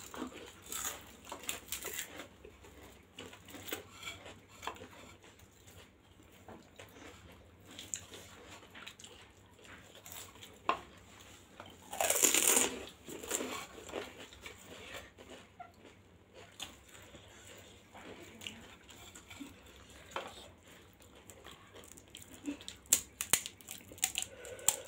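Close-miked chewing and wet mouth sounds of someone eating pani puri. About twelve seconds in, a louder burst of crunching as a whole puri shell filled with spiced water goes into the mouth and is bitten.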